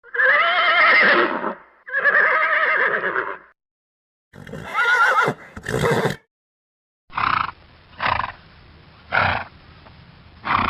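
Horse whinnying: two long neighs with a wavering pitch, then two shorter calls, followed by four short bursts about a second apart.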